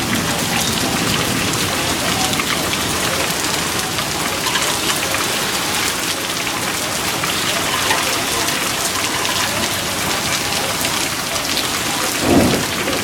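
Heavy rain falling steadily during a storm, a dense patter of drops hitting surfaces. A brief low thump comes near the end.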